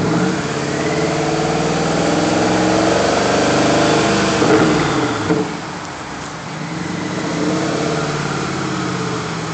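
Alpina B7's V8 engine and exhaust revving. The pitch climbs over the first four seconds, drops back about five seconds in, then rises gently again.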